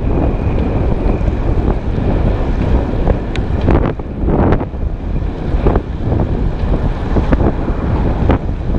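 Heavy wind buffeting the microphone of a moving road bike, surging in repeated gusts while riding into a headwind.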